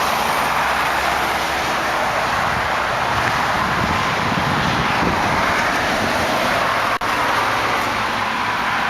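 Steady, even rush of road traffic going by.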